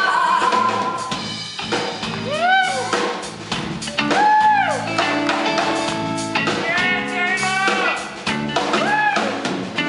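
Live rock band playing an instrumental break between verses: a drum kit keeps the beat under a lead line whose notes swoop up and down.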